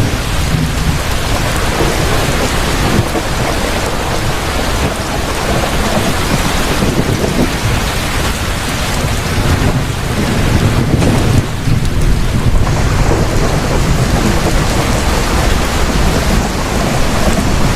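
Heavy rain pouring steadily, with thunder rumbling low underneath; the rumble swells a little about ten seconds in.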